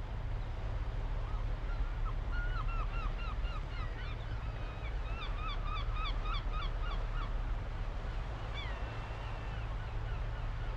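Birds calling in quick runs of short, hooked notes for several seconds, then a couple of longer sliding calls, over a steady low rumble.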